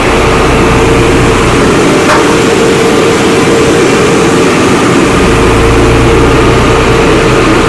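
Loud, steady running of a heavy engine on road-construction machinery, with a constant whine over the low rumble.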